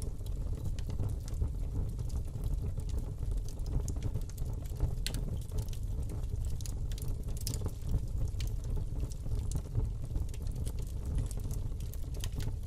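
Fire burning in a fireplace: a steady low rumble of the flames with scattered sharp crackles and pops.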